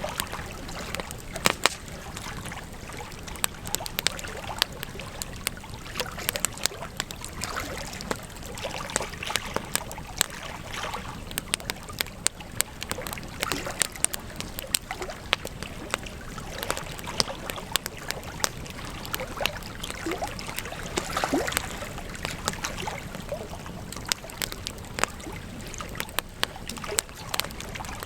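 Wood campfire burning, crackling and popping irregularly over a steady low rush of flames.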